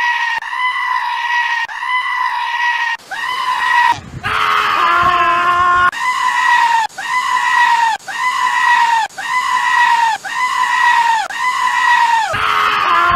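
A goat screaming over and over, one high, loud call about every second, each ending with a drop in pitch, broken about four seconds in by a longer, lower, wavering bleat.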